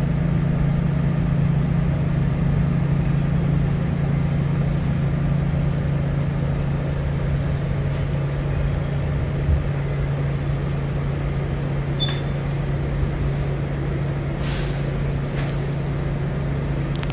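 New York City subway train running, heard from inside the car: a steady low hum over a continuous rumble, with a few faint clicks and a short hiss about fourteen seconds in.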